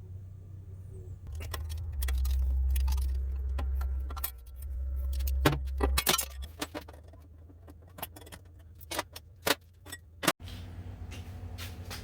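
Metal tools and parts clinking and rattling as they are handled, many sharp clicks, with a low hum from about one to six seconds in.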